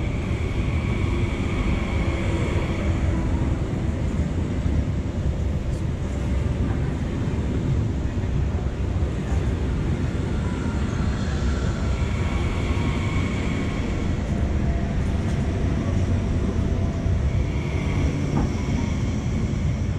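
Frecciarossa 1000 high-speed electric train rolling slowly past: a steady rumble of wheels on rail, with a faint high whine that comes and goes.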